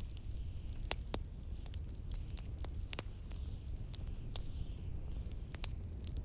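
Wood fire crackling in a fireplace, with sparse sharp pops about a second or more apart, over a steady low rumble of blizzard wind.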